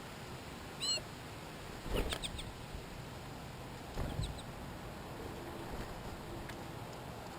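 Three short animal calls over a steady hiss: a small high one about a second in, the loudest about two seconds in, and another about four seconds in.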